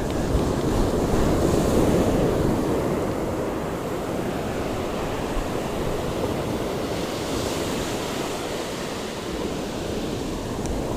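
Ocean surf washing onto the beach, swelling loudest in the first couple of seconds, with wind buffeting the microphone.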